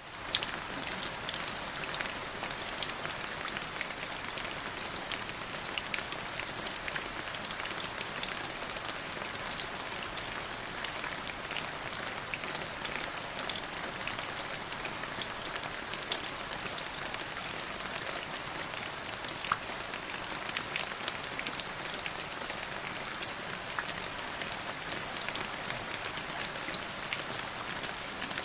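Steady rain falling on a surface: an even hiss with many scattered sharp drop ticks.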